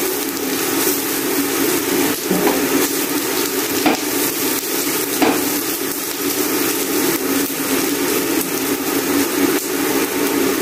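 Chopped onion and garlic sizzling as they sauté in a nonstick frying pan, with a spatula scraping and tapping the pan a few times as they are stirred, over a steady hum.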